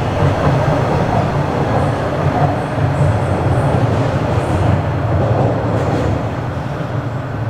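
Bombardier Toronto Rocket subway train running on the Sheppard line, a loud steady rumble of wheels and motors heard from inside the car.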